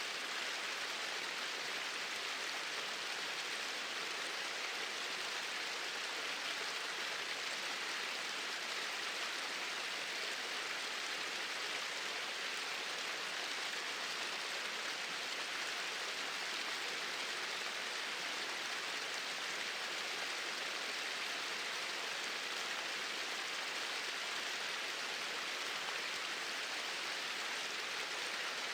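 Small waterfalls pouring in a steady, even rush of water, with no changes.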